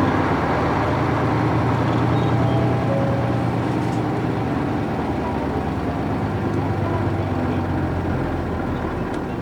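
Nissan Diesel UA440 city bus (U-UA440HSN) heard from inside the cabin, its PF6 diesel engine running steadily as the bus moves. The engine sound eases slightly near the end.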